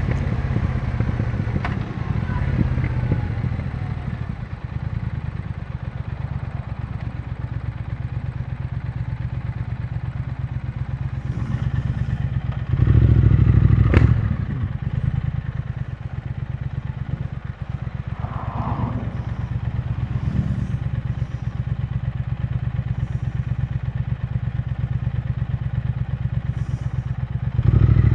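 A Triumph Speed Twin 1200's parallel-twin engine ticking over at a steady idle, the rough, stalling idle the owner blamed on bad fuel now smoothed out after injector cleaner. About halfway through the engine briefly gets louder, and a single sharp click follows.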